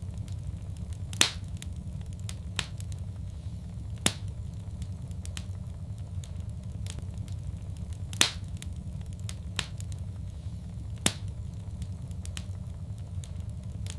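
Wood fire crackling in a fireplace: a steady low rumble of burning with four sharp pops, about three seconds apart, and smaller ticks in between.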